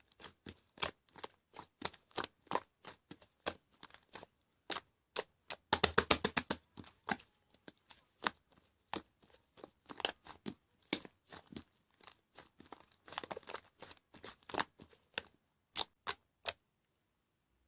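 Yellow fluffy slime being squeezed and pressed by hand, making many small sticky pops and clicks at an uneven pace, with a quick run of them about six seconds in. The sounds stop about a second before the end.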